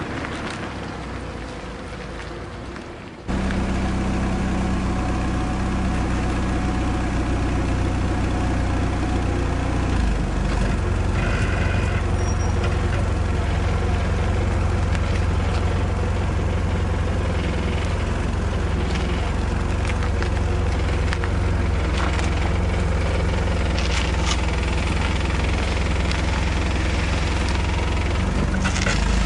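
A vehicle engine idling steadily, a low even hum that comes in abruptly about three seconds in, after a fading noise.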